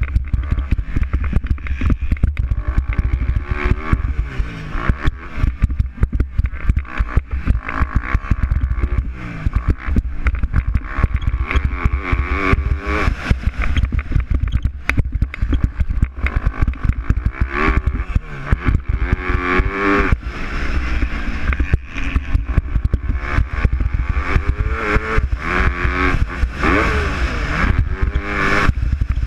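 MX2 motocross bikes racing, their engines revving up and down over and over as the riders work the throttle through the track.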